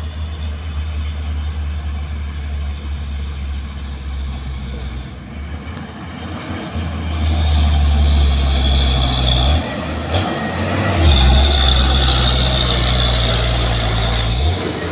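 Heavy truck's diesel engine running under load on a steep climb, growing louder about seven seconds in.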